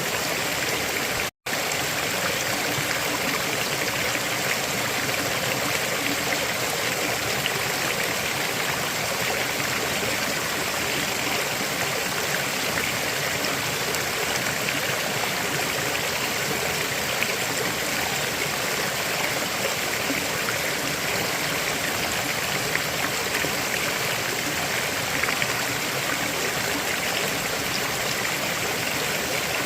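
River water flowing in a steady, unbroken rush. The sound cuts out to silence for an instant about a second and a half in.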